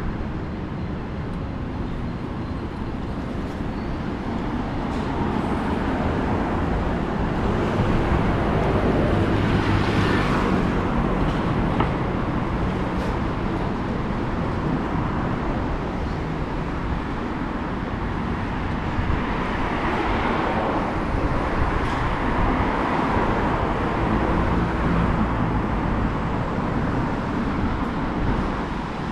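Street traffic: steady road noise, with vehicles swelling past about ten seconds in and again about twenty seconds in.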